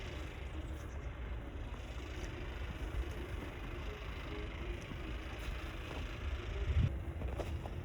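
Outdoor city street background: a steady low rumble with faint vehicle traffic.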